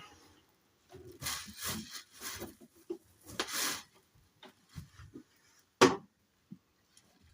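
Packaging being handled during an unboxing: irregular rubbing and scraping, with one sharp knock about six seconds in.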